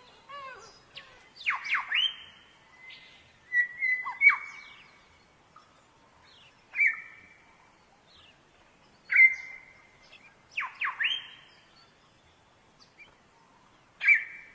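A bird calling over and over, each call one or two quick upward-sweeping notes running into a short held whistle, repeated every two to three seconds.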